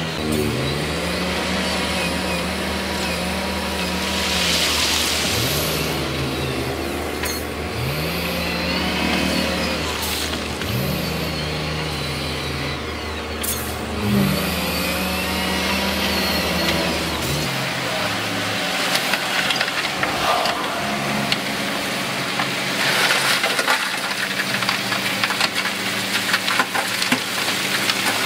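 Diesel engine of heavy earthmoving machinery revving up again and again, every couple of seconds, over a steady low hum. About two-thirds of the way through, the low hum stops and a dense crackling noise takes over.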